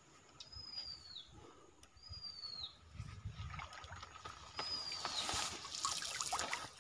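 A bird repeats a short, high, downward-slurred whistle about every two seconds. From about halfway through, water trickles and drips as a bamboo lift net is raised out of the stream.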